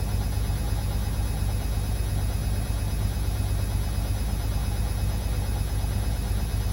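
Beko WA 1050 washing machine running steadily mid-cycle, a constant low hum with no pauses or changes.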